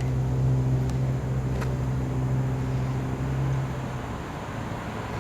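Big-rig truck's diesel engine running with a steady low hum that drops away about four seconds in. Two faint clicks come within the first two seconds.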